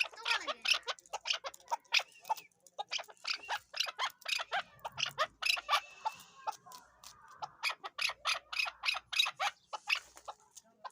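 Chukar partridge calling: a rapid run of short, harsh chuck notes, several a second, without a break.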